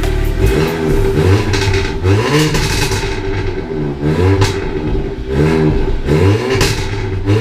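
Car engine revved in repeated short blips, its pitch rising and falling about once a second.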